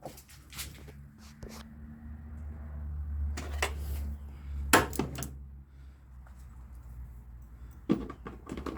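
Scattered metallic clicks and knocks of hand work on a starter mounting bolt under a car, over a low hum that swells for a few seconds and then fades.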